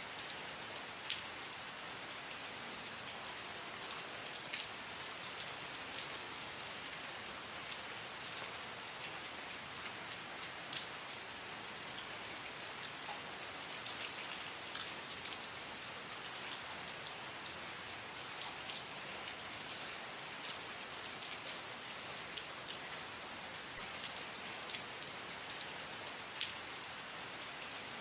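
Steady rain falling, an even hiss with many separate drops ticking on a surface scattered through it.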